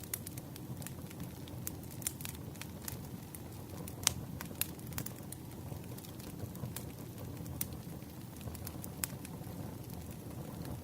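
Campfire crackling: a steady low rush of burning wood with irregular sharp pops and snaps, the loudest pop about four seconds in.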